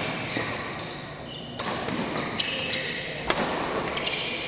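Badminton doubles rally: rackets striking the shuttlecock in sharp cracks about three times, with sneakers squeaking on the court floor between the shots.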